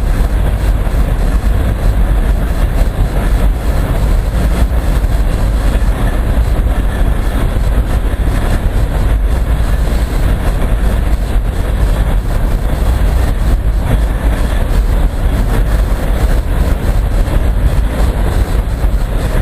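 Long freight train rolling past close by: a steady loud rumble and rattle of railcars on the track.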